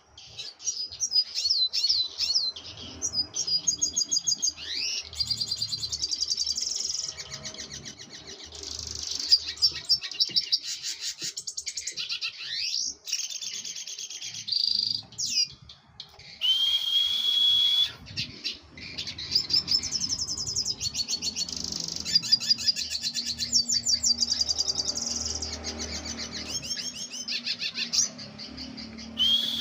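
A small songbird singing a long, continuous song of rapid high trills, broken by rising whistled glides and a couple of held whistled notes.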